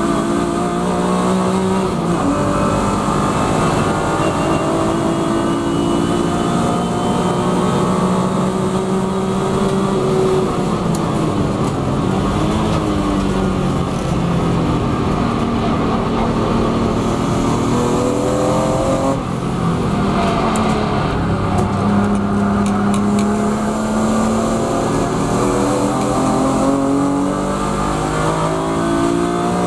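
BMW E36 M3 Evo's 3.2-litre straight-six, heard from inside the race car's cabin at racing speed. The revs climb through the gears and drop sharply under braking several times, about 2 seconds in, about two-thirds of the way through and again near the end.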